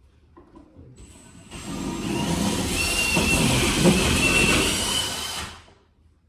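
A power tool runs for about four seconds with a hissing noise and a faint wavering whine, then stops abruptly.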